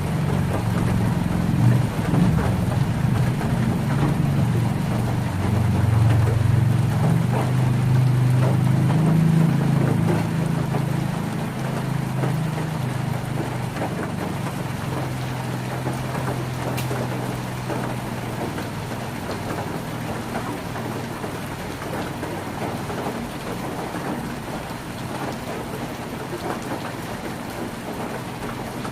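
Heavy rain pattering on a tin roof, with many small drop ticks. A deep low rumble sits under the rain, strongest in the first ten seconds or so, then fades away.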